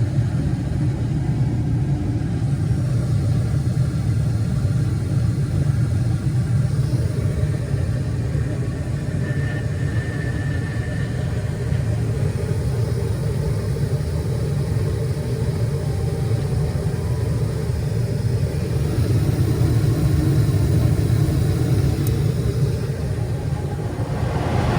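Gas furnace running normally with its burners lit and its fan running: a steady low rumble.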